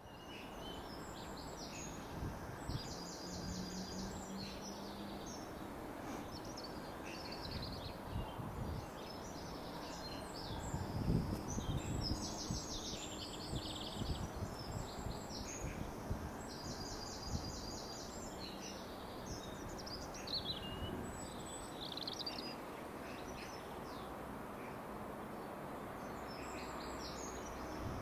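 Songbirds singing, with rapid trilled phrases repeating every few seconds, over a steady low background rumble.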